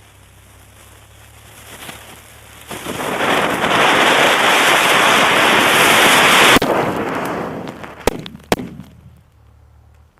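A lit firework hissing loud and steady for about four seconds, then dying away, with two sharp cracks as it fades.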